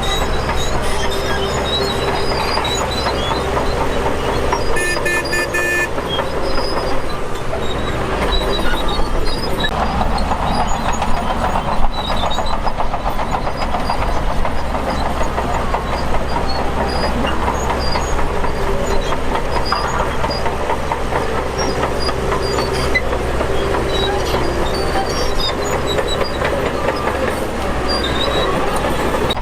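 Shantui DH17 crawler bulldozer working: its diesel engine runs steadily under the clatter and squeal of the steel tracks as it pushes dirt. A short high tone sounds about five seconds in.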